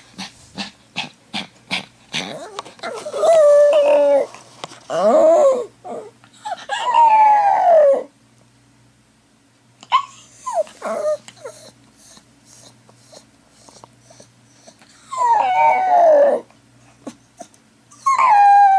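A dog howling when left without its owner: a few short whimpers, then a series of long howls, several sliding down in pitch, with a pause in the middle and a few short yelps.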